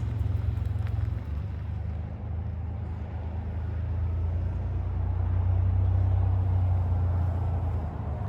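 Truck engine running, a steady low drone that swells through the middle and eases near the end.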